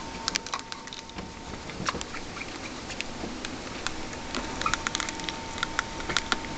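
Pet rats scrabbling about, making many small irregular clicks and scratches.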